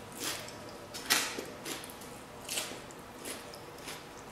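A person chewing a mouthful of salad greens: a string of short, irregular chewing and smacking noises, about one a second.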